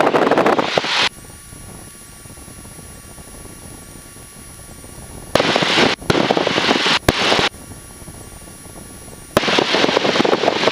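Cockpit audio of a Cessna 172 Skyhawk gliding with its engine at idle for a simulated engine failure: a low steady hum, cut three times by loud bursts of rushing noise that switch on and off abruptly, near the start, in the middle and near the end.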